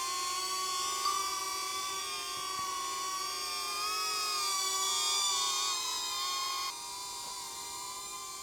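Small quadcopter drone in flight, its propellers giving a steady whine that wavers a little in pitch. The sound drops suddenly in level about two-thirds of the way through.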